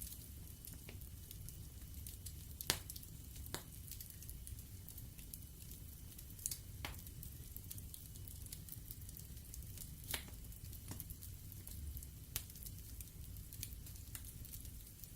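Wood fire burning in a fireplace, crackling with scattered sharp pops from the burning logs, the loudest about three seconds in, over a low steady rumble of the flames.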